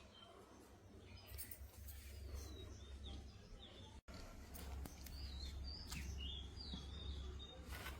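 Small birds chirping faintly, a scatter of short calls with quick pitch glides, more of them in the second half, over a steady low rumble.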